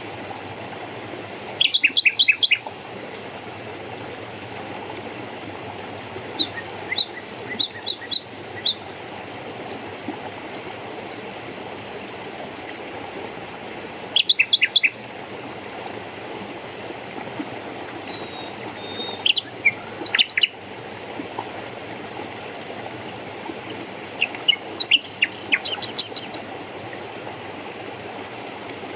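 A songbird repeats a short song about every five seconds: a thin high whistle leading into a quick run of sharp notes. Beneath it runs the steady rush of flowing water.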